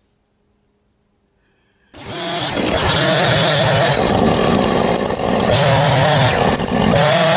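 Near silence, then about two seconds in a chainsaw comes in loud at full throttle, cutting into a log, its pitch wavering as the chain bites under load.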